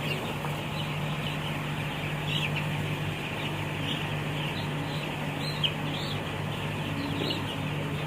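A large flock of week-old broiler chicks peeping, a dense continuous chatter of high chirps with individual peeps standing out, over a steady low hum.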